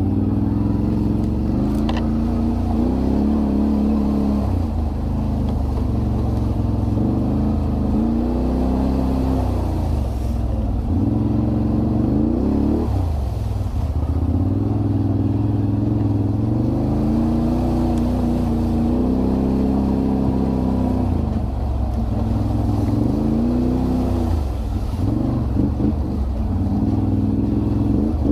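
Can-Am Renegade 1000 ATV's V-twin engine under way, its pitch rising and falling again and again as the throttle is opened and eased off.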